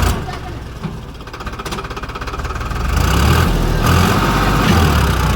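Tractor engine working under load while pulling at a stuck trolley: it eases off at first, then revs up and runs hard from about three seconds in.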